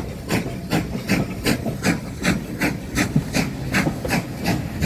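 Footsteps walking briskly on a station platform, an even beat of nearly three steps a second.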